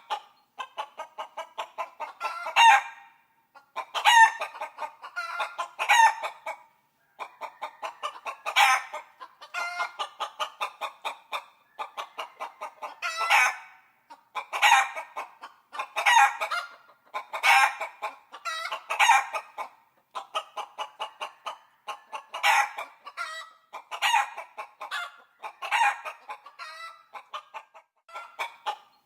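Chickens clucking in fast runs, broken by a louder squawk every second or two.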